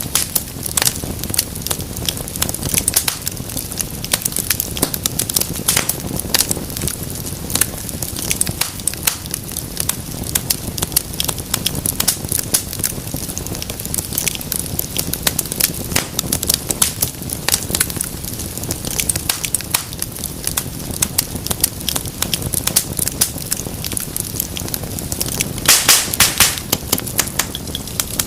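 Wood fire burning in a fireplace: a steady low rumble of flames with dense, irregular crackles and pops, and a louder flurry of pops near the end.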